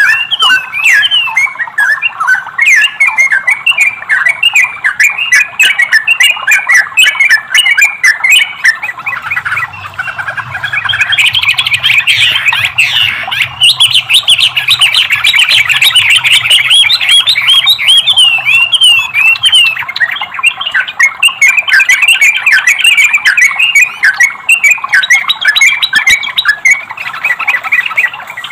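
Bulbul song, a masteran recording of trucukan (yellow-vented bulbul) and cucak rowo: fast, unbroken chattering and warbling phrases that are densest around the middle. A faint low hum sits under the song for part of the time.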